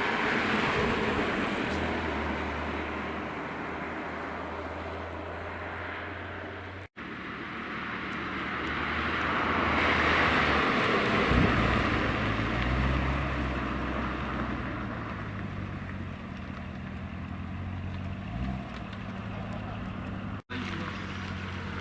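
Sports cars driving past one after another: engine and tyre noise swells and fades twice, with a low engine hum underneath that steps up and down in pitch in the second half. The sound cuts out briefly twice.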